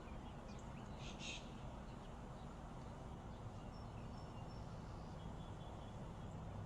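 Faint outdoor ambience: a steady low rumble, with a few short bird chirps about a second in and faint high calls later.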